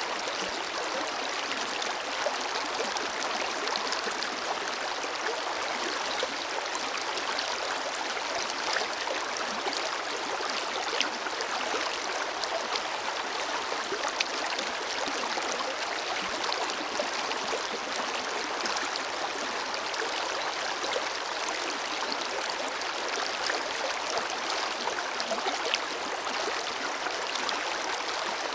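Forest river flowing steadily over rocks: a continuous rush of water with small splashes and gurgles throughout.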